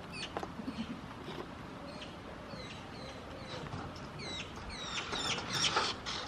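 Small birds chirping: a run of short, high, quickly falling chirps that grows busier toward the end.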